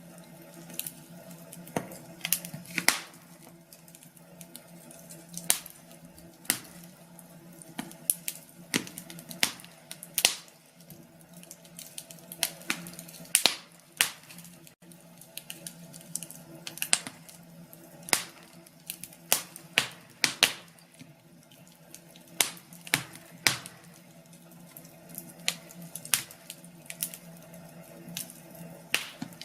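Wood fire in a fireplace crackling: irregular sharp pops and snaps, sometimes several close together, over a faint steady hum.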